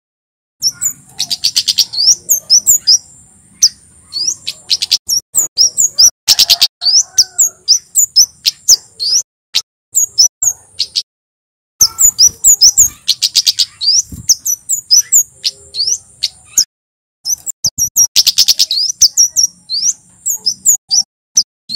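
Male kemade jawa (a flowerpecker) singing: long runs of rapid, sharp, high chirps that fall in pitch, broken by short pauses. At times a steady high buzz sounds beneath them.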